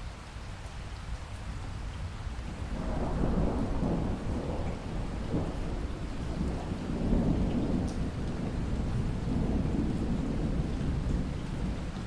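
Steady rain with a long roll of thunder that swells in about three seconds in and keeps rumbling, rising and falling, to the end.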